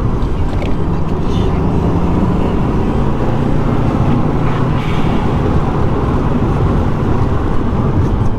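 Subaru Impreza with its flat-four engine driving on a road: steady engine and road rumble, with the engine note rising a little above the rumble during the first half.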